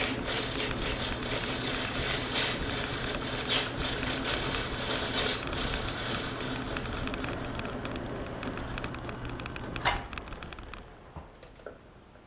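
Metal lathe running with a steady motor hum while the tool takes a cut on a metal part, then a sharp clunk about ten seconds in as the machine is shut off and winds down to quiet.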